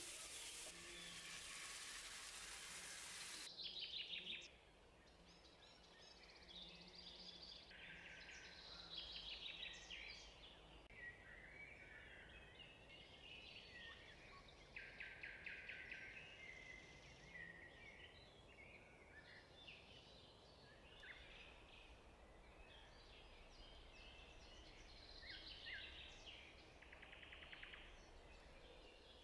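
A pan of chicken thighs simmering in cream sauce makes a steady hiss that cuts off sharply about three and a half seconds in. After that, birds chirp and trill faintly in many short calls.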